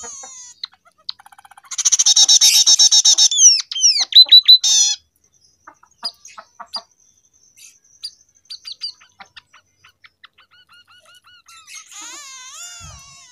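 Scaly-breasted munia singing a song filled with learned canary phrases. A loud rapid trill comes about two seconds in, then a run of sweeping whistled slides and scattered short chirps and clicks, and another wavy warbling phrase near the end.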